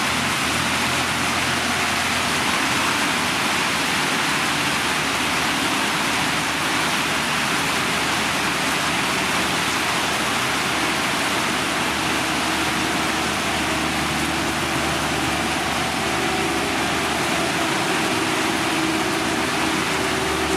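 Heavy road-construction machine's engine running steadily under a constant rushing noise, with no sudden events.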